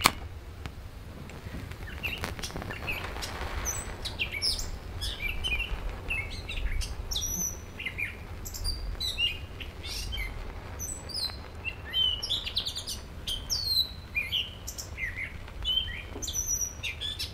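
Songbirds chirping, many short high calls repeated on and off, over a steady low rumble.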